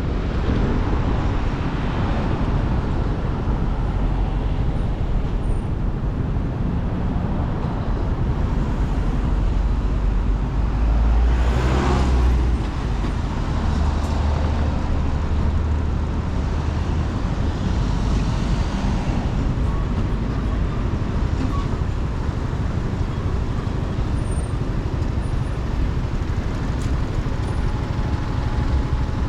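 Motorcycle riding in road traffic: the engine running under a steady rumble of road and wind noise, with a brief louder rush about twelve seconds in.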